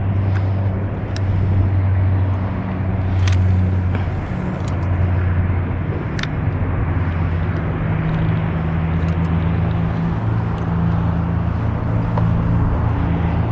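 Steady low engine drone with a slight waver in pitch, with a few faint clicks over it.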